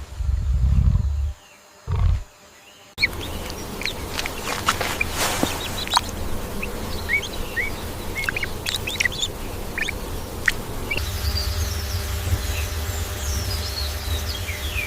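Birds chirping in many short, quick calls over a steady low rumble. In the first two seconds there are a couple of low rumbling bursts before the chirping starts.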